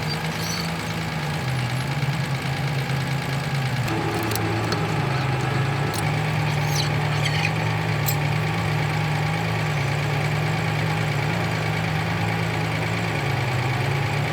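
Lonking 850 wheel loader's diesel engine running steadily.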